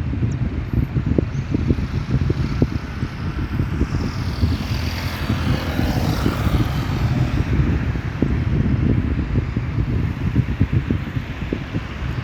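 Airplane passing: its engine hiss swells about four seconds in and falls in pitch as it goes by, fading a few seconds later. Heavy wind buffeting on the microphone throughout, loudest in the low end.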